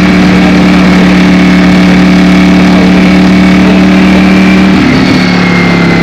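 Ducati Streetfighter V4S's V4 engine running at a steady engine speed while under way. Its note changes briefly about five seconds in.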